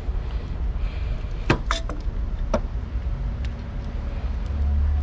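A few sharp metallic clicks and clinks from hand tools working on a car battery terminal, over a steady low rumble.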